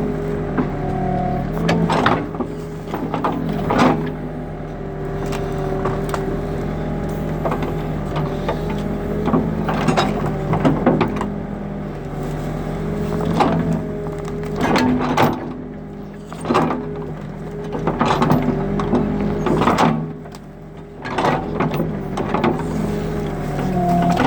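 New Holland backhoe loader's diesel engine running under changing load as it digs out tree roots, with a wavering whine over the engine and repeated knocks and cracks from the bucket and roots.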